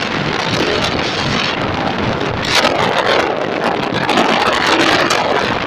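Passenger express train rushing through at speed: a loud, steady roar of wheels on rail and wind, with scattered clacks.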